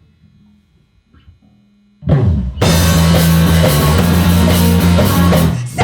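Live punk rock band: after about two seconds of faint low bass and guitar sounds, the full band crashes in loud with drum kit, distorted electric guitar and bass holding one chord, which breaks off shortly before the end into separate drum hits.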